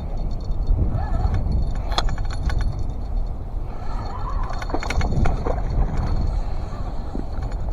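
Wind buffeting the microphone, with the small bell clipped to the fishing rod jingling now and then as a hooked bluefish pulls on the line.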